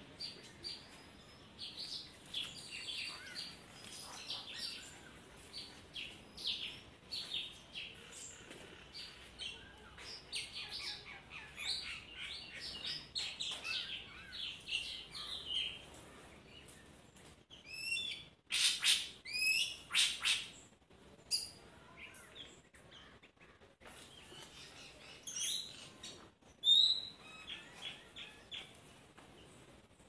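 Small birds chirping in quick short notes, with a louder bird giving a series of sharp repeated calls a little past the middle, and a few more calls near the end.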